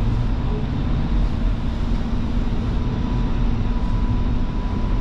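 Light rail train running between stations, heard from inside the car: a steady low rumble with an even hum and a faint high whine from the drive.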